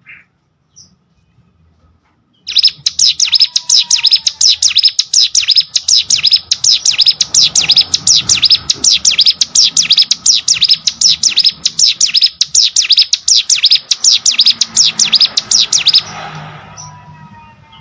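Ciblek sawah (a prinia) singing: a fast, even run of sharp high chirps, about five a second. It starts after a short pause and stops abruptly near the end.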